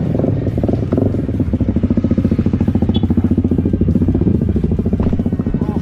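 Motorcycle engine running at a steady speed, heard close up as a rapid, even pulsing.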